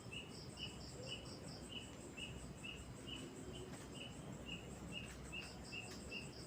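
Faint outdoor chirping: a short high chirp repeats about twice a second, joined near the start and again near the end by a quicker, higher run of pips.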